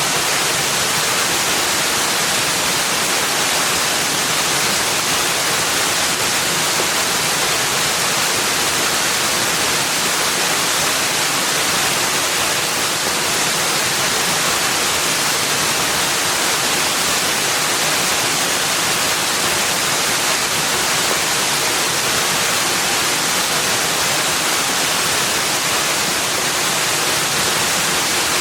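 Steady, even hiss of rushing water, with no change in level and no separate events.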